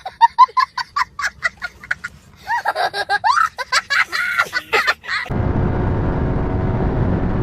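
A man laughing in rapid short bursts for about five seconds. Then, after an abrupt cut, a Yamaha R15's single-cylinder engine runs steadily at speed under wind rush.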